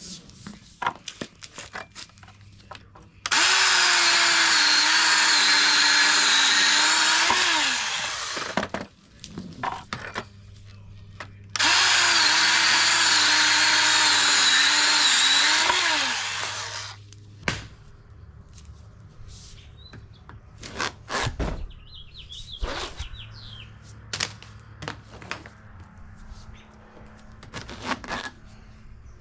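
A power tool's electric motor runs twice, each time for about four to five seconds, its pitch falling away as it stops. Scattered knocks and clicks of handling come before, between and after the runs.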